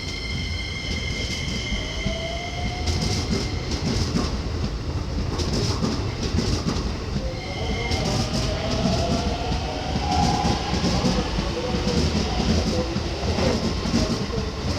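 Keikyu electric train running slowly over rail joints and points during a turnback move, its wheels clicking and clacking over a steady rumble. A steady high-pitched wheel squeal sounds for the first couple of seconds and briefly again about eight seconds in.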